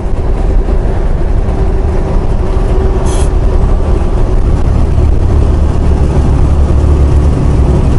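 Semi-truck engine and road noise heard inside the cab while driving: a loud steady low rumble, with a brief hiss about three seconds in.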